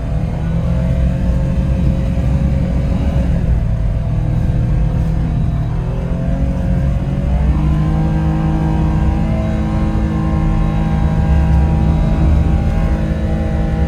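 A 4x4 truck's engine revving under load as the driver tries for traction. The pitch rises about halfway through and is then held high.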